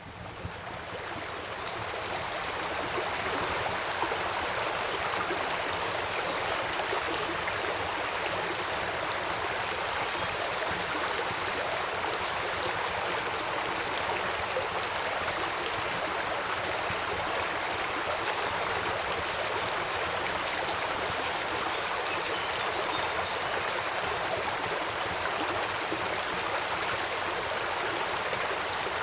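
Steady rush of a flowing river, fading in over the first few seconds. Faint high chirps repeat about once a second from about halfway in.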